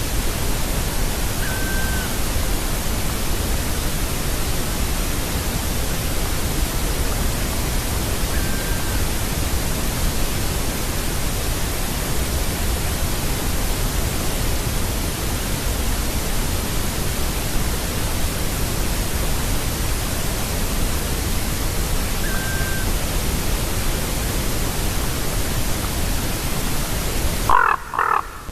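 Steady loud hiss with three faint, distant black woodpecker calls, short and high, each dipping in pitch at the end and spaced several seconds apart. Near the end the hiss cuts out abruptly and a louder raven call starts.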